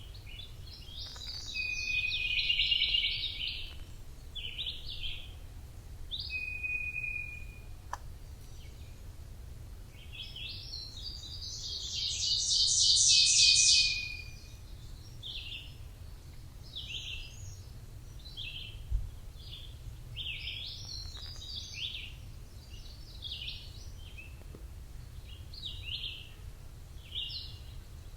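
Forest songbirds chirping and singing in short phrases, with one long, rapid trill, the loudest call, from about ten to fourteen seconds in. A low steady rumble sits underneath.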